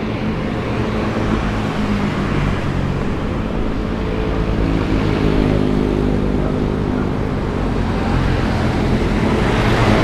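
Honda CBR1000RR's inline-four engine running through an SC-Project aftermarket exhaust, a steady low exhaust note that rises slightly in pitch around the middle.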